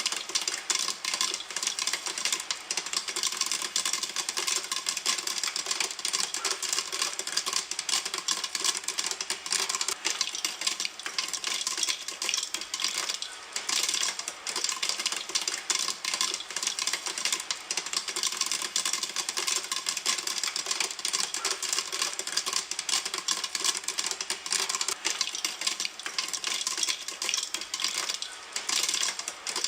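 Popcorn popping in a pan: a dense, fast run of sharp pops and clicks that keeps up evenly throughout.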